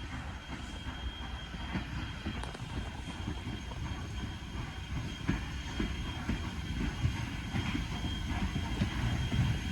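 A train running on the rails, a steady low rumble with irregular knocks that grows gradually louder toward the end.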